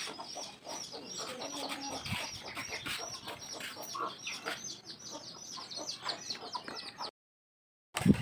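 Chickens clucking, with a high chirp repeating about two or three times a second and scattered clicks. The sound drops out completely for under a second near the end, then comes back with a loud thump.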